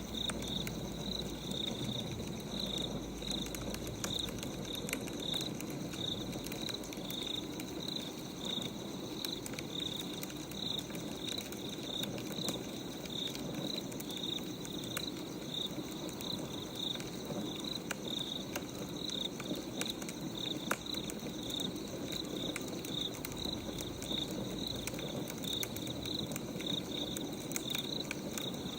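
Crackling wood fire with crickets chirping in a steady, even rhythm.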